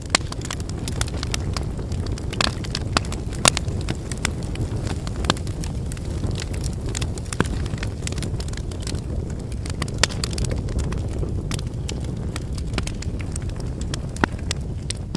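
Wood fire burning: a steady low rush of flames with frequent sharp crackles and pops from the burning firewood, a few of them much louder than the rest.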